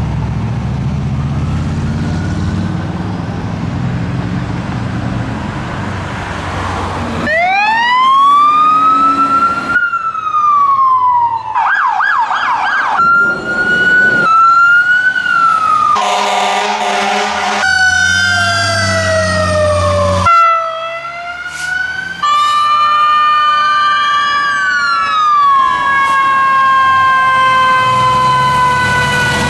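Fire engine responding with its sirens going. At first mostly engine and road rumble. From about seven seconds in, loud siren sweeps take over: rising and falling wails, a rapid yelp, and a brief horn-like blast. Near the end several siren tones overlap, one of them falling slowly.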